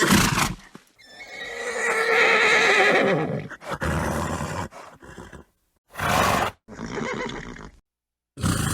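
A horse neighing: one long wavering whinny from about a second in, with several short breathy horse sounds before and after it. Each sound cuts off abruptly into silence.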